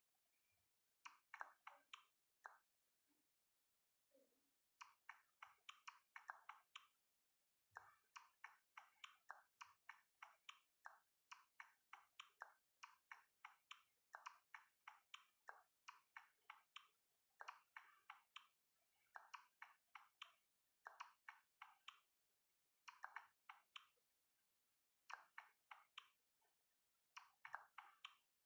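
Faint, rapid clicking in short runs of one to two seconds, separated by brief pauses.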